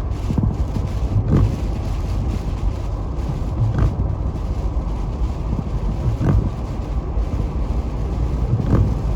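Car driving on a snow-covered interstate, heard from inside the cabin: a steady low rumble of engine and tyre noise, with a few short thumps along the way.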